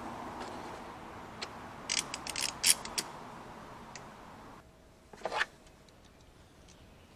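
A quick run of sharp mechanical clicks and knocks, then a short scrape about five seconds in, over a steady hum that cuts off suddenly shortly before the scrape.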